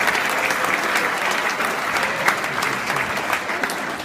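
Crowd applauding, the clapping beginning to thin out near the end.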